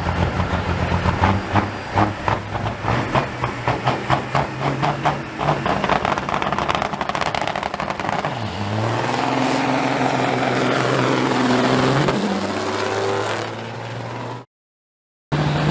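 Semi truck diesel engine held at high revs with a fast, even pulsing. About eight seconds in the pitch dips at a gear change, then climbs again as the truck accelerates hard. Near the end the sound cuts off abruptly for about a second.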